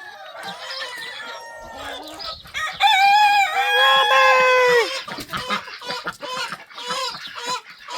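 A rooster crows once, about three seconds in, a long drawn-out crow lasting about two seconds, with chickens clucking in short quick calls before and after.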